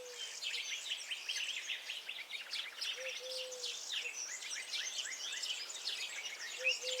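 A dense chorus of songbirds, with many overlapping quick chirps and trills. Beneath it, a lower bird call of a short note followed by a longer one comes twice, about three and a half seconds apart.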